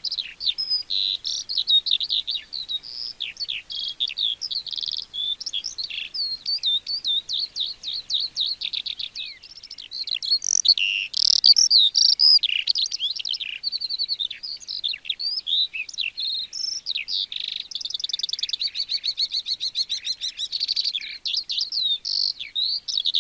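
Skylark singing: a long unbroken stream of rapid chirps, whistles and warbled notes, with a fast, even trill about three-quarters of the way through.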